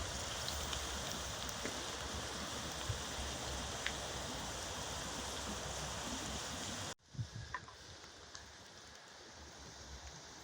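Steady rush of running water that cuts off abruptly about seven seconds in, giving way to a quieter background with a few faint clicks.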